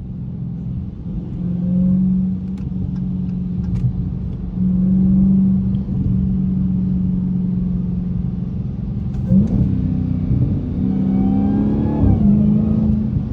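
Dodge Hellcat's supercharged 6.2-litre V8 running at a steady low drone while driving, swelling twice, then rising in pitch under acceleration about ten seconds in before dropping back near the end.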